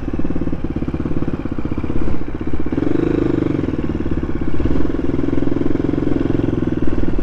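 KTM supermoto motorcycle engine running at low revs while riding slowly in traffic, with a short rise in engine pitch and loudness about three seconds in.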